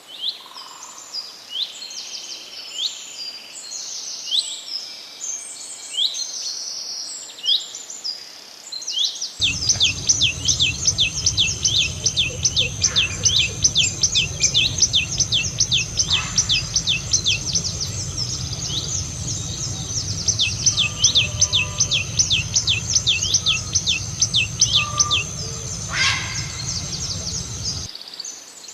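Songbirds chirping and calling in quick, high, downslurred notes. About 9 s in the sound cuts to another recording: a rapid run of sharp downslurred notes over a steady low rumble, which stops shortly before the end.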